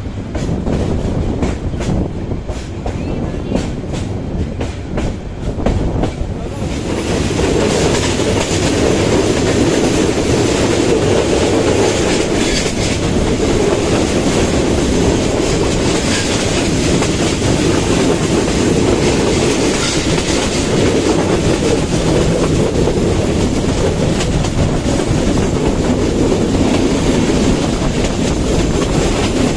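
Passenger train running at speed, heard from an open coach door: wheels clicking rhythmically over rail joints. About seven seconds in, the running noise becomes louder and steadier, a dense rumble and rush that holds from then on.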